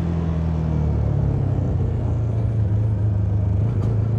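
CFMoto 300NK's single-cylinder engine running steadily, its pitch stepping down a little about a second in, over a steady rush of wind noise.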